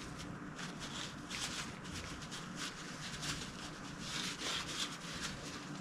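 Rag wiping shotgun parts, a faint, irregular series of soft rubbing strokes.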